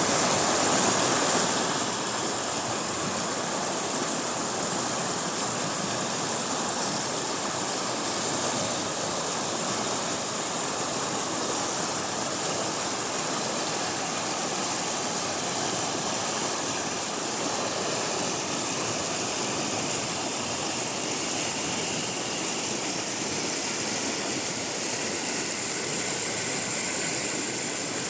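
Flowing water, a steady rushing with no breaks, a little louder in the first two seconds.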